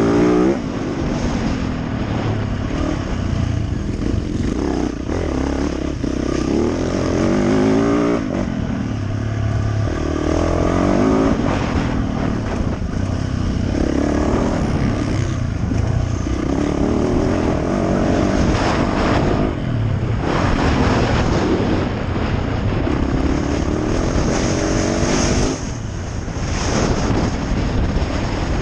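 Yamaha YZ450F single-cylinder four-stroke motocross bike being ridden hard, its engine revving up and falling back over and over as the rider works the throttle and gears. The throttle is shut off briefly a few times.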